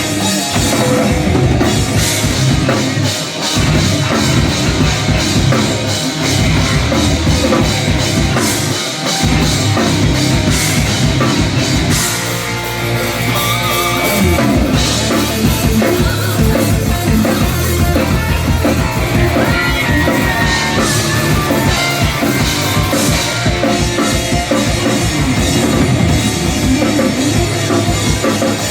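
Heavy metal band playing live: distorted guitars over fast drum-kit beats. About halfway through, a low note holds for a couple of seconds with the drums eased off, then the full band crashes back in.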